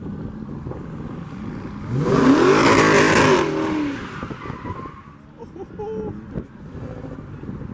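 A car accelerating hard past with a loud exhaust, its engine pitch rising and then falling away over about two seconds, a few seconds in.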